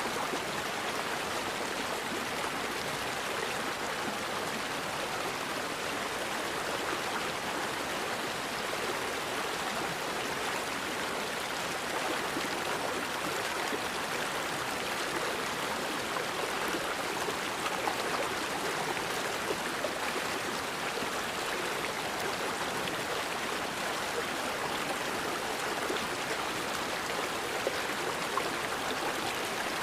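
River water flowing over rocks, a steady even rushing with no breaks.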